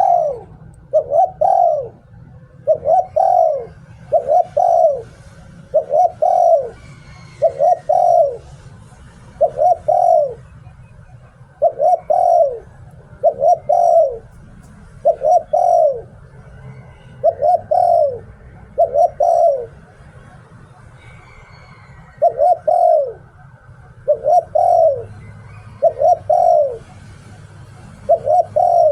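A spotted dove cooing over and over in the 'liu tan' rhythm: short phrases of two or three falling notes, repeated about every two seconds, with one longer pause about two-thirds of the way through.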